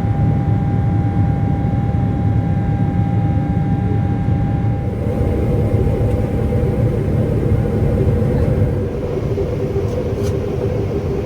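Boeing 777-300ER's GE90 engines and airflow heard inside the cabin: a loud, steady low rumble with a thin steady whine that fades out about eight seconds in.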